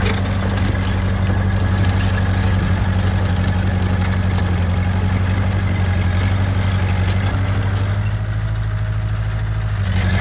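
Diesel engine of heavy construction machinery running steadily, with a low, even hum.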